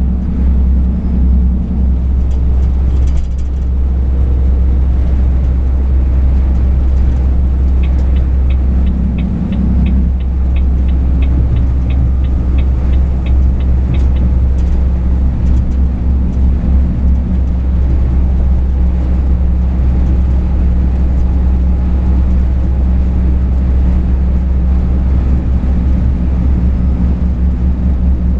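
Truck engine running steadily, heard from inside the cab as a low drone. For about six seconds a third of the way in, a light regular ticking comes through, about three ticks a second.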